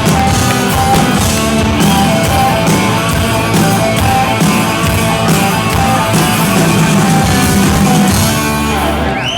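Rock band playing an instrumental groove: electric guitar, bass and drum kit, with steady drum strokes under held guitar notes.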